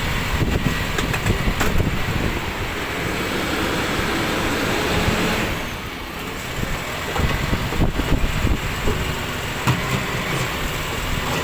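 Rubbish truck running, with scattered knocks and clatter and a brief swell of hiss about five seconds in.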